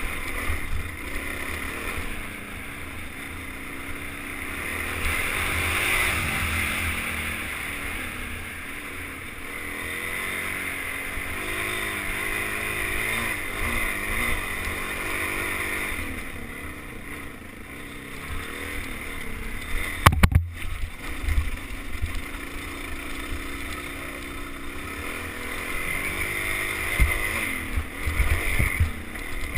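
Suzuki DR-Z400's single-cylinder four-stroke engine running as the dirt bike rides a trail, its pitch rising and falling with the throttle, with wind buffeting the helmet-mounted microphone. A sharp knock about twenty seconds in, and a few more knocks near the end.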